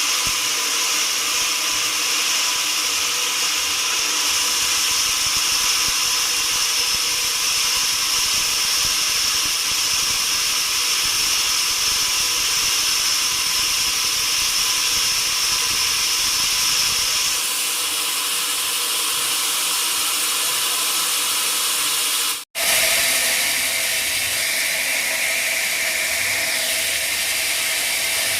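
Sawmill saw running steadily with a high, hissing band that shifts about two-thirds through. A brief dropout follows, and afterwards the machinery sounds different.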